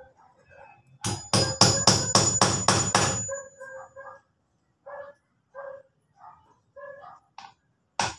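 Hammer driving a nail into wood with a quick run of about nine blows, roughly four a second, with a metallic ring. Quieter short ringing sounds follow.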